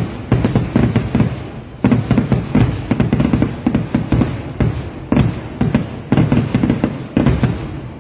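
Vedikettu fireworks barrage: loud overlapping bangs and booms of shells bursting one after another, about two or three a second, without a pause.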